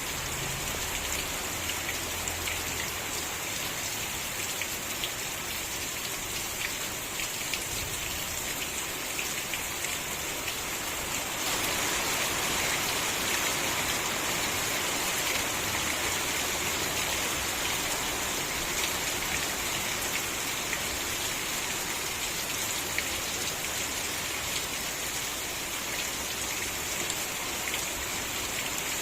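Steady rain falling, with scattered drops ticking. It gets a little heavier about a third of the way in.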